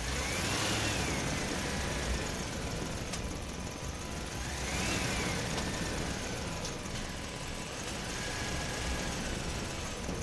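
A vehicle engine sound running steadily, with a whine that rises and falls in pitch twice and levels off near the end.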